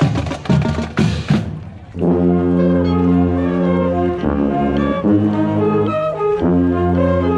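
Marching band playing: a burst of drum strikes for about the first second and a half, then the brass section comes in with held, changing chords.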